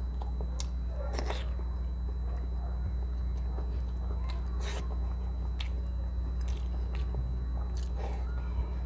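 Close-miked eating by hand: chewing of soft food with scattered sharp wet mouth clicks and smacks, over a steady low hum.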